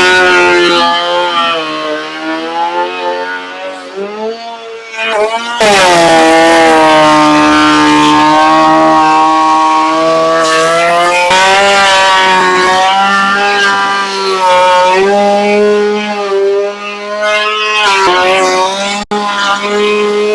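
Electric sander running on wood, its motor pitch sagging and recovering as the workpiece is pressed against it, with a short break about four seconds in.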